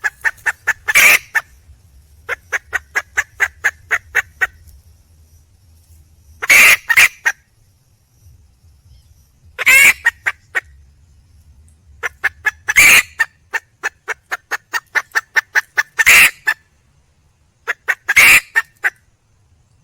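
Junglefowl hen calling: runs of short, quick clucks at about six a second, broken by a loud, harsh call roughly every three seconds.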